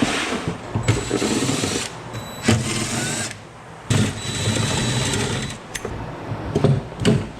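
Handheld power drill running in four short runs of about a second each, with a steady whine, followed by a few sharp clicks near the end.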